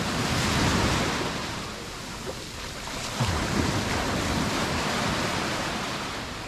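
Mediterranean surf: small waves breaking and washing up a sand beach. The wash swells about a second in and again, more suddenly, about three seconds in.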